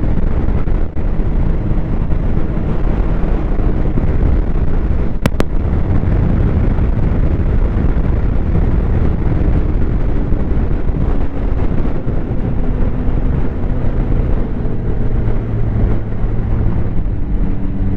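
Snowmobile engine running at slow trail speed under heavy wind buffeting on the microphone; the engine's steady tone stands out more clearly in the second half.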